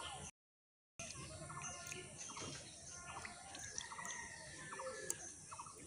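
Faint outdoor ambience with birds chirping and calling, broken by a short drop to dead silence just after the start.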